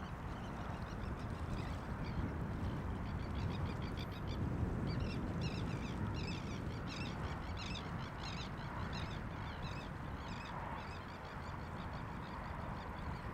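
A flock of birds calling, many short repeated notes overlapping, busiest in the middle, over a steady low rumble.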